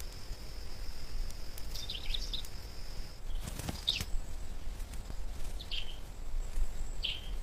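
Small bird chirping in short, scattered calls, about four or five in all, over a low steady background rumble. A thin, steady high-pitched whine runs for the first three seconds.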